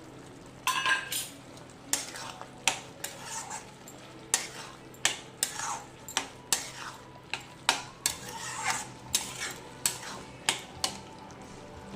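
A spoon stirring sambar in a cooking pot after the ground sambar powder goes in: irregular clinks and scrapes against the pot, about one or two a second.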